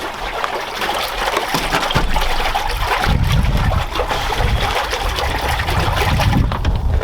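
Water trickling and sloshing in a cold plunge tub, with heavier low rumbling from about two seconds in.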